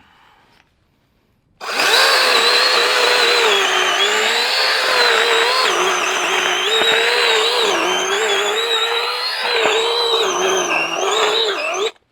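Battery-powered electric mini chainsaw running at full speed for about ten seconds, starting abruptly and stopping sharply, with a high motor-and-chain whine whose pitch wavers and dips as it runs.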